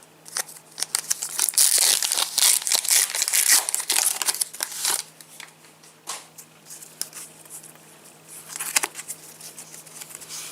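A Match Attax trading-card packet's wrapper being torn open and crinkled for about five seconds, then quieter rustling and clicks as the cards are handled.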